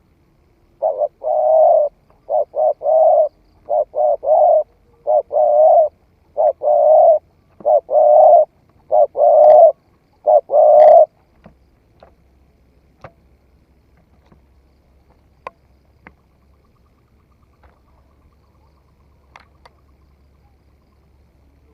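Spotted dove cooing: a series of short coos in groups of two and three for about ten seconds, then stopping. Only a few faint clicks follow.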